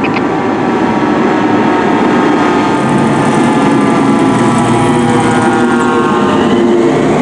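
Fire apparatus responding with its siren sounding over a heavy engine, the siren's pitch sliding down through the middle.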